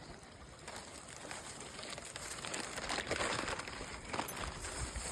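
Rustling and crackling of dry leaves and twigs being disturbed, a dense run of small crackles that grows louder from about a second in.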